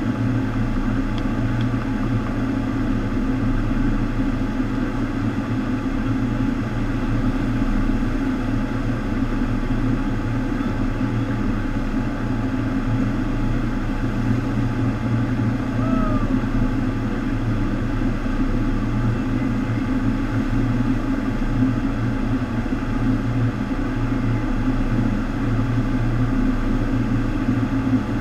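FlowRider surf machine running: a steady rush of water sheeting up its wave surface, over the low, even hum of its pumps.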